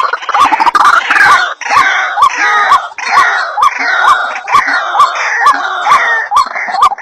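White-breasted waterhen (ruak-ruak) calls, played as a bird-trapping lure: a continuous chorus of harsh repeated notes, about two a second, with sharp clicks running through it.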